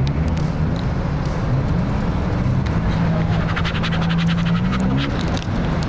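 Car engine idling, a steady low hum whose pitch rises a little twice as it is blipped. About three seconds in comes a quick run of light clicks.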